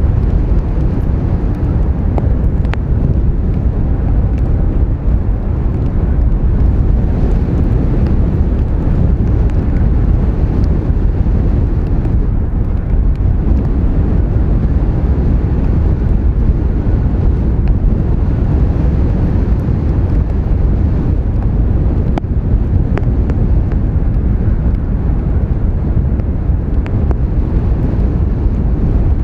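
Strong wind buffeting the microphone: a loud, steady low rumble of wind noise.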